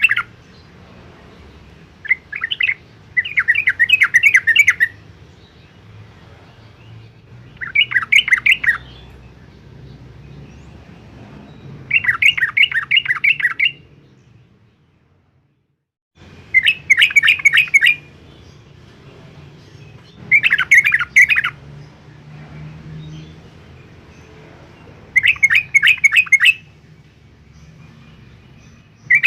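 Yellow-vented bulbul in full song: short phrases of quick notes, each a second or two long, repeated every three to four seconds. The sound drops out completely for about two seconds about halfway through.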